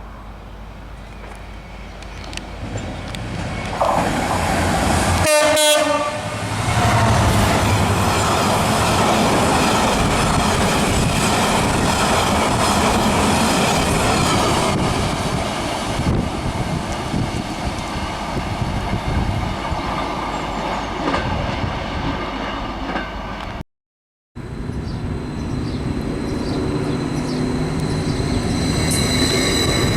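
A train approaching and sounding its horn briefly about five seconds in, then passing with loud, steady wheel and running noise. A short break near the end is followed by more passing-train noise with a steady high whine.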